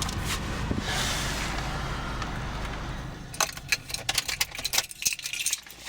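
A car engine idling as a steady low hum with some hiss, fading out about five seconds in. From about halfway through, a quick run of sharp clicks and knocks as things are handled.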